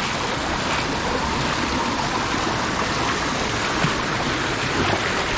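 Mountain stream water rushing steadily, a continuous even wash of sound.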